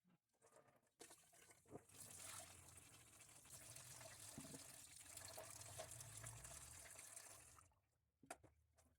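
Faint water running from a tap while a jug is washed in the sink, starting about a second in and stopping near the end, with a few small knocks.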